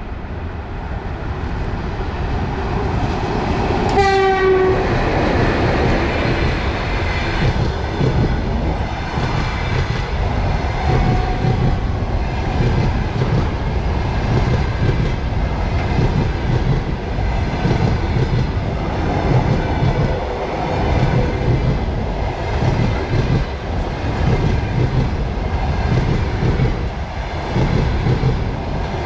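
EP1M electric locomotive sounds a short horn blast about four seconds in as it comes past. After that comes the steady rumble and clickety-clack of the passenger coaches' wheels over the rail joints as the long train runs by.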